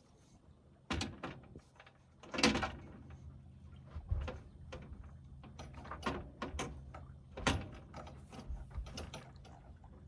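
Irregular knocks, clunks and rattles of sailing gear being handled aboard a small yacht, a few sharper strikes standing out among lighter clatter.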